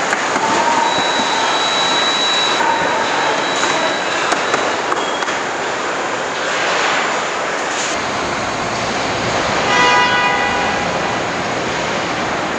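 Factory assembly-line noise: steady machinery running with a wash of hiss and faint whines, and about ten seconds in a short horn-like tone sounding for about a second.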